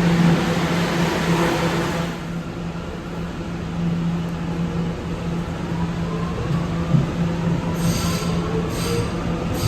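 Subway train running, with a steady low hum and rumble; a faint whine rises slowly in pitch in the second half, and short high squeals come near the end.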